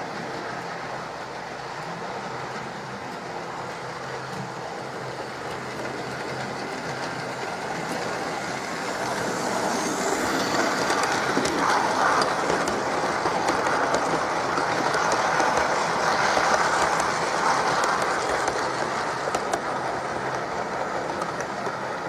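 Hornby Railroad model of the BR Standard Class 8 'Duke of Gloucester' running on model railway track: a steady whirr and rolling wheel noise. It grows louder from about eight seconds in and falls away again after about eighteen seconds.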